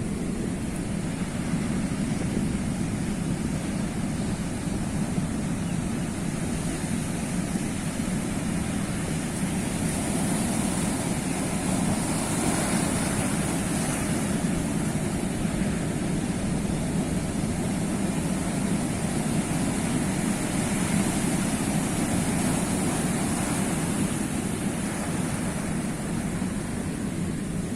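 Sea waves washing in a steady rush of surf, swelling a little about halfway through and again a few seconds before the end.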